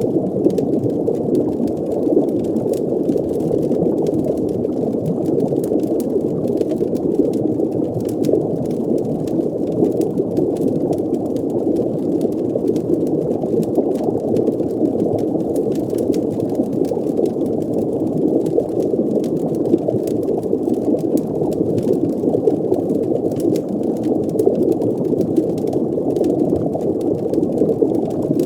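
Steady, muffled underwater ambience: a dense low rush of bubbling water that does not change, with faint light crackles scattered over it throughout.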